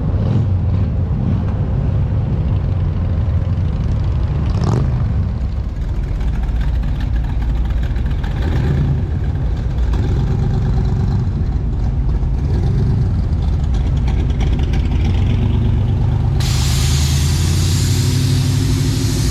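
Car engine and road noise heard from a camera mounted on a moving car: a steady low rumble throughout. A steady hiss cuts in about three-quarters of the way through.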